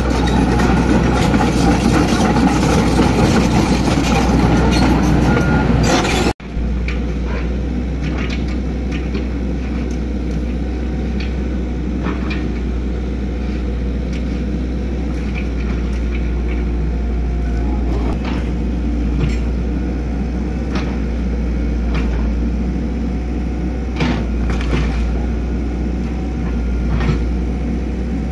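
Excavator's diesel engine running with a steady low drone. The sound cuts off abruptly about six seconds in and resumes quieter, with occasional short knocks and clanks.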